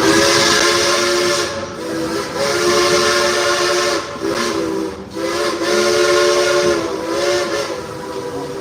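Chime whistle of steam locomotive No. 192, a 1943 coal-fired engine. It blows a chord of several steady notes over a hiss of escaping steam, in a run of long and short blasts with brief breaks between them.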